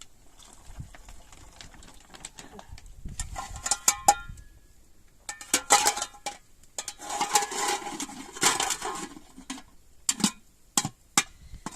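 Metal dishes and utensils knocking and scraping: a ringing clink about four seconds in, a few seconds of scraping and rattling, then several sharp clicks near the end.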